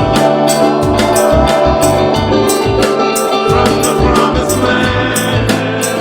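Band music: a drum kit keeping a steady beat under sustained chords, with singing.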